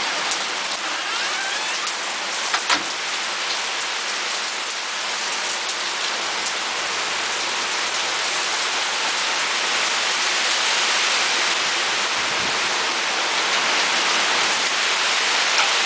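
Heavy thunderstorm rain pouring steadily onto trees and nearby surfaces, as an even hiss that grows a little heavier in the second half. A couple of sharp taps come about two and a half seconds in.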